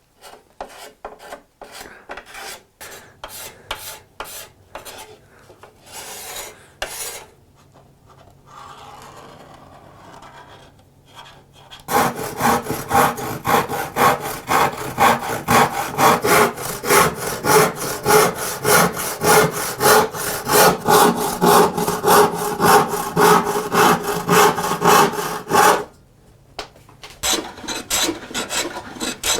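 Hand tool working wood with back-and-forth strokes: light, irregular strokes at first, then a long run of loud, even strokes at about three a second, with a short break near the end before the stroking starts again.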